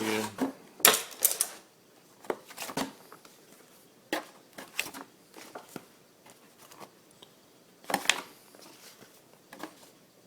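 Manuals, papers and small items being handled by hand: irregular clicks, taps and rustles, the busiest about a second in and again near eight seconds.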